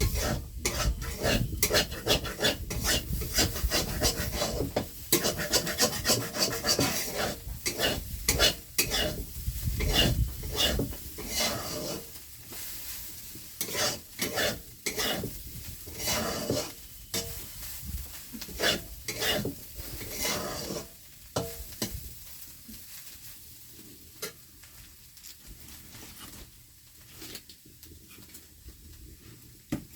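A utensil stirring and scraping food in a pan over the fire while it sizzles. The scraping strokes come thick and fast for the first half, then grow fewer and fainter, and the pan mostly settles to a soft sizzle.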